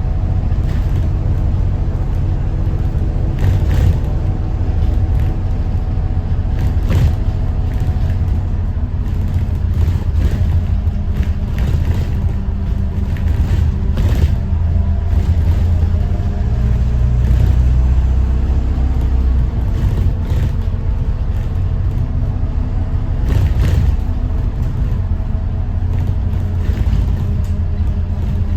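Moving 2021 Thomas Saf-T-Liner C2 school bus: the Detroit diesel engine is running with a steady low rumble, with frequent irregular rattles and knocks from the bus body.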